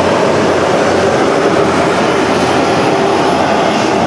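Turboprop engines of the Golden Knights' jump plane running steadily: a loud, even drone with no change in pitch.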